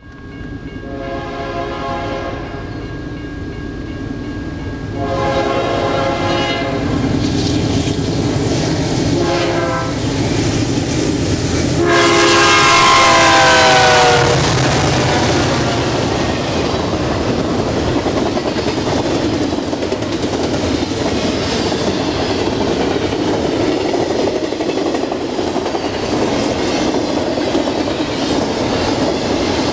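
Diesel locomotive air horn sounding the grade-crossing signal: long, long, short, long. The last blast drops in pitch as the lead unit passes. Then the BNSF hot-shot intermodal train rushes by at speed, its locomotives (a C44-9W, an ES44DC and an SD40-2) running hard, followed by the steady rumble and clickety-clack of container cars.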